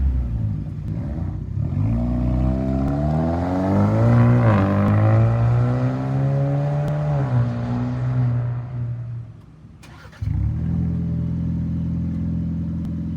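Ford Bronco 2.3L turbocharged four-cylinder running through an MRT King of the Hill dual-tip aftermarket exhaust. It revs up and down with a quick blip partway through, falls away, then settles into a steady idle about ten seconds in.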